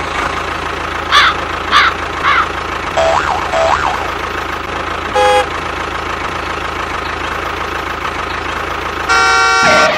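Steady engine drone, with three quick chirping sweeps early, two warbling tones around three seconds in, a short horn honk about five seconds in and a longer horn blast near the end.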